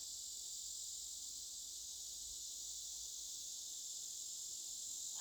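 Cicadas singing: a steady, high-pitched drone without breaks.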